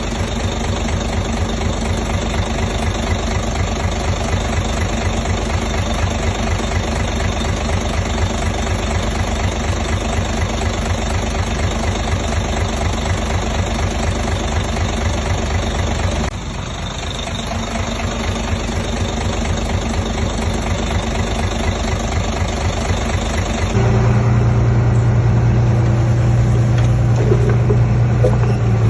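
Heavy machinery diesel engine running steadily. The sound dips about 16 seconds in, then shifts about 24 seconds in to a louder, deeper, more even hum.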